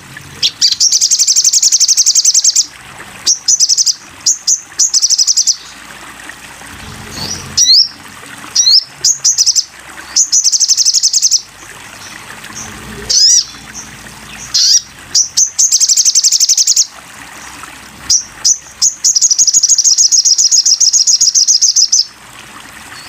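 Sogok ontong songbird singing: high-pitched rapid trills of about two seconds each, three times, alternating with short sharp chirps and quick sweeping notes.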